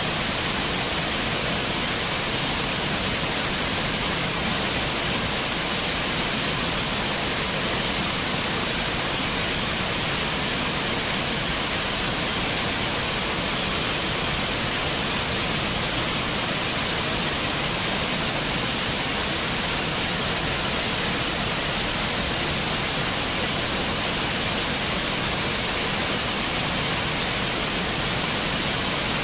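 Water running steadily, a constant even rushing hiss with a bright high edge and no change in level.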